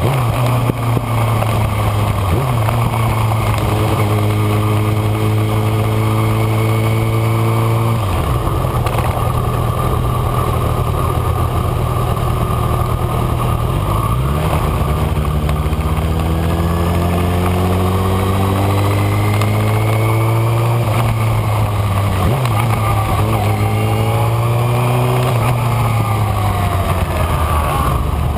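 Kawasaki Ninja ZX-6R inline-four engine running hard, its pitch repeatedly climbing and then dropping as the rider shifts gears and rolls off and back on the throttle.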